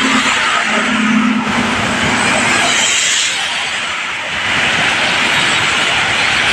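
Sea surf breaking on the shore with rain falling, a loud, steady rushing noise. A faint low hum sounds for the first second and a half or so.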